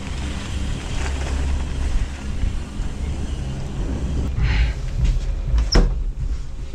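Gondola lift running: a steady low mechanical rumble, with a short hissing rattle about four and a half seconds in and a sharp click a little later.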